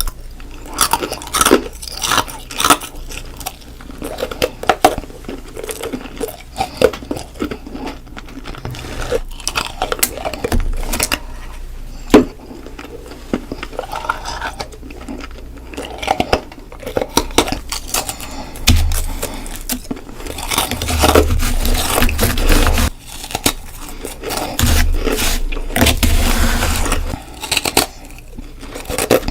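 Ice being bitten and crunched close to the microphone: many sharp cracking bites, with longer stretches of dense chewing crunches in the second half.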